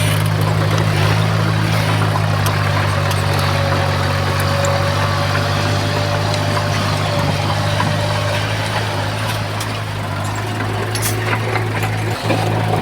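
Komatsu bulldozer's diesel engine running at a steady, even pitch, with a few sharp clicks near the end.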